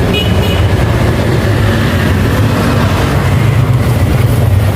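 A steady, loud low mechanical rumble, like a running engine.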